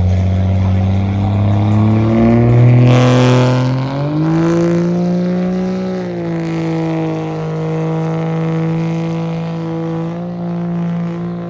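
Diesel truck engine climbing in revs for about four seconds, then held at high revs and easing off slightly. Two short hissing bursts come as it reaches the top.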